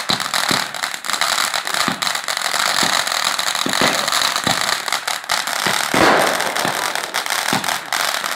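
Consumer fireworks going off: a continuous hiss of rising sparking trails with repeated sharp pops and bangs, and a louder burst about six seconds in.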